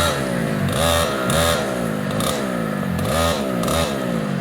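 Racing go-kart engines revving: the pitch falls as karts ease off into a corner and climbs again as they accelerate out, twice over, with more than one kart running.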